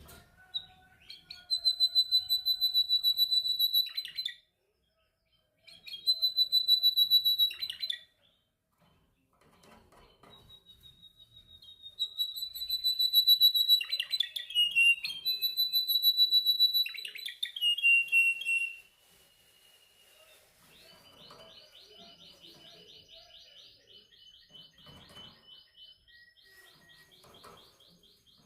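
Male canary singing: loud phrases of rapid, evenly repeated trilled notes at a high, steady pitch, each lasting a few seconds with short pauses between. In the last third it switches to a quieter, faster rolling trill.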